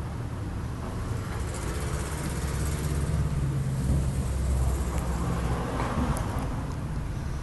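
A car engine running close by, a steady low rumble that grows somewhat louder in the middle.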